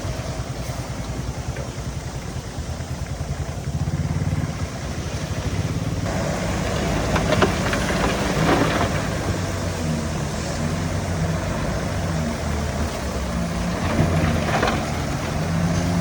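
Diesel engine of heavy earthmoving machinery running steadily, getting louder about four seconds in and again about six seconds in. A few short clanks come over it, near the middle and near the end.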